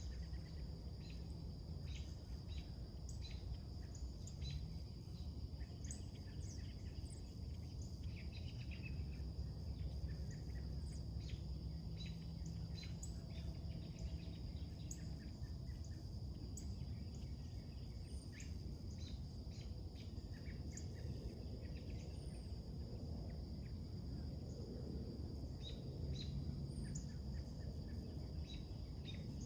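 Birds chirping and singing in many short, scattered calls, over a steady high insect trill and a low steady rumble.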